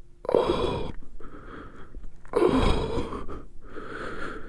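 A man sighing heavily: two long, breathy 'ohh' exhales, each followed by a softer in-breath.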